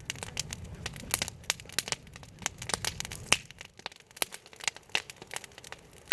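Wood fire crackling: irregular sharp snaps and pops, over a low rumble that fades away a little past halfway.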